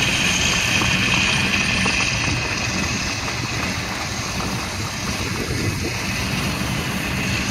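Electric motor and propeller of a Dynam Cessna radio-controlled model plane whining steadily in flight. The whine fades a little midway and rises again near the end, with wind rumbling on the microphone.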